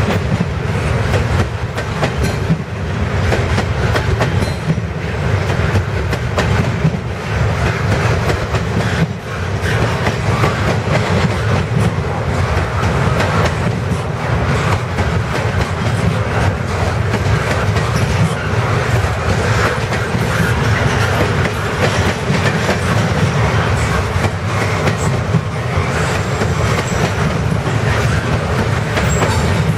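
Freight train of double-stack container well cars rolling past close by: a steady rumble of steel wheels on rail, with rapid clicking and clatter as the wheels cross rail joints.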